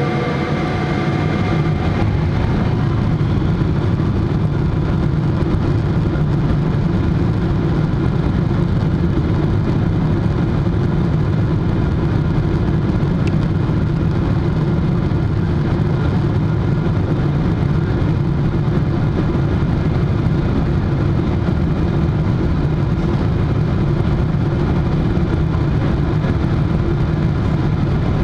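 Boeing 777-300 engines and rushing air heard from inside the passenger cabin during takeoff: a loud, steady rumble.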